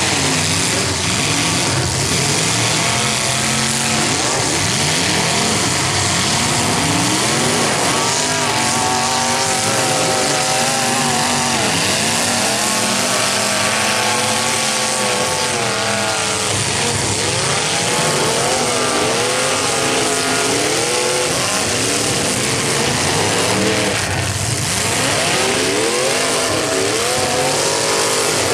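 Several demolition derby cars' engines revving up and down at once over a loud, continuous rumble, the pitch of each engine rising and falling as the cars accelerate and back off.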